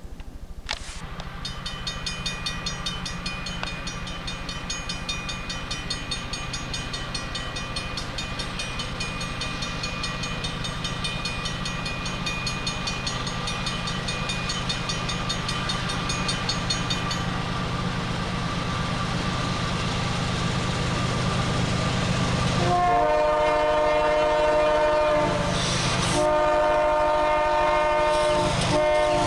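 Diesel locomotives of an approaching train, their low rumble steadily growing louder, with a fast high ringing that stops about 17 seconds in. From about 23 seconds the train's air horn sounds loudly in several blasts with short breaks between them.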